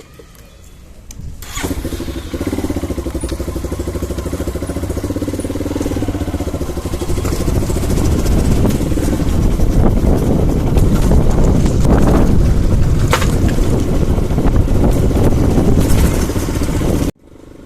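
Hero Karizma motorcycle engine starting about a second and a half in, then running steadily and growing louder about halfway through before cutting off suddenly near the end.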